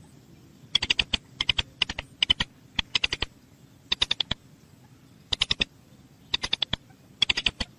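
Short bursts of rapid, sharp clicks, three to six at a time, repeating every half second to a second with gaps of low background.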